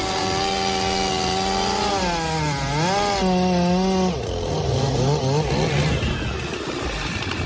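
Chainsaw running at high revs. Its pitch sags and recovers twice as it works under load in a cut.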